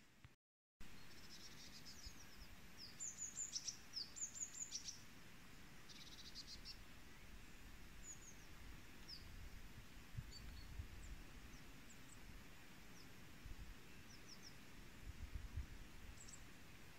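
Small songbirds chirping faintly: quick bursts of short, high calls in the first few seconds, then scattered single chirps, over a steady outdoor hiss with a few low rumbles.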